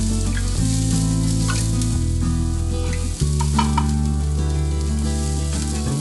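Chopped food frying in hot oil in a non-stick pan: a steady sizzle, with a spatula stirring and scraping, including a few sharp clicks a few seconds in. Low sustained music tones that change every second or so run underneath.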